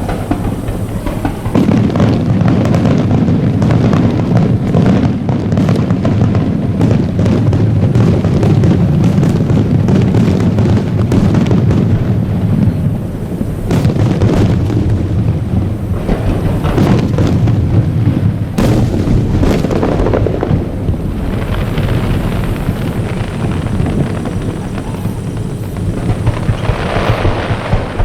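Aerial fireworks shells bursting in a dense barrage, the booms running together into a continuous rumble, with crackling toward the end.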